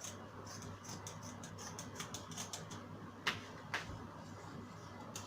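Scissors cutting through fabric: a run of quick, crisp snips, with two sharper, louder clicks a little past the middle.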